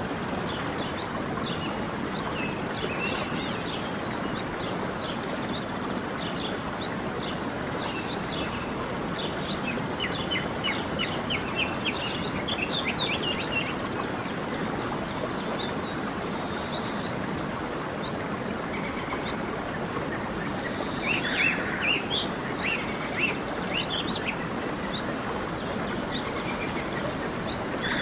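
Steady rush of a flowing stream with birds chirping over it in quick runs of short, high notes, busiest in two spells, one in the middle and one near the end.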